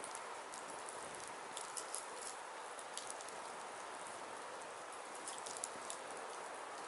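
Firewood burning: a steady hiss with irregular sharp crackles and pops.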